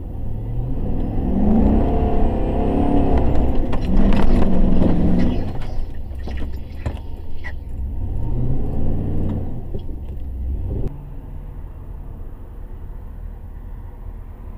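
A 4x4's engine revving hard twice, its pitch rising each time, under the load of a kinetic-rope yank on a pickup stuck in sand, heard from inside the cab. There are a few knocks and clatters between the two revs. About eleven seconds in, the engine drops back to a steady idle.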